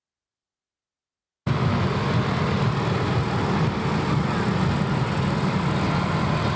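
Dead silence, then about a second and a half in a steady low rumbling outdoor noise starts abruptly as the camcorder's sound comes on.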